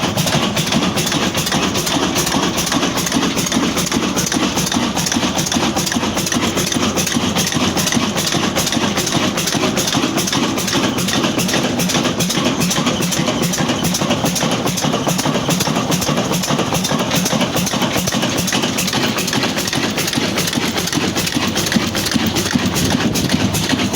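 Old Ruston Hornsby diesel engine running steadily, with an even, rapid knocking beat.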